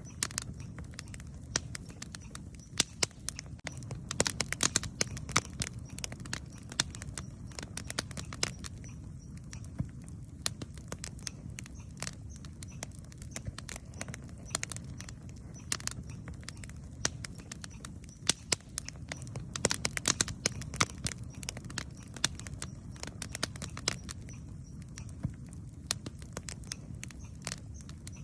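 Campfire burning, with dense, irregular crackles and sharp pops of the wood over a low, steady rumble of the flames. The popping comes in thicker flurries twice.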